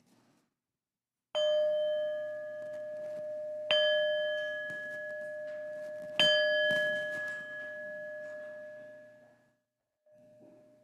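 A bell struck three times, about two and a half seconds apart, each stroke ringing on with a steady tone. The last stroke fades out over about three seconds.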